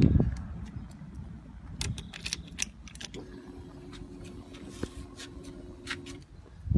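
The Yamaha XSR700's engine dies away in the first half second. Then come light clicks, like keys or switches being handled, and a steady electric hum of about three seconds from about three seconds in, typical of the fuel pump priming once the ignition is switched on before a start.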